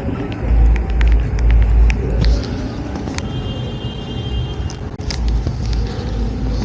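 Street traffic: motor vehicles rumbling past, swelling twice, with scattered sharp ticks and a brief steady high-pitched tone in the middle.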